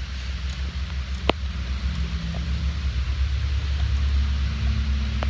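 Car engine idling steadily, with one sharp click just over a second in.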